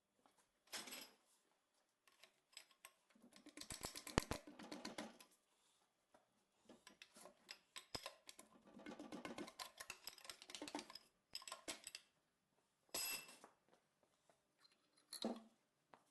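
Faint, scattered metallic clicks, clinks and scrapes of hand tools and engine parts being handled while a piston is taken out of a ZMZ-513 engine, busiest about four seconds in.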